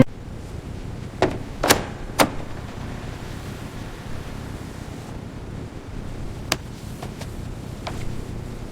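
A handful of short, sharp knocks and clicks over a low, steady background noise. Three come close together in the first couple of seconds and three more are spaced out later.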